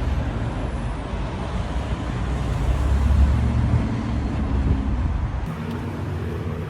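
Steady low rumble of motor vehicle noise, with a sudden change about five and a half seconds in, where the deepest part of the rumble drops away.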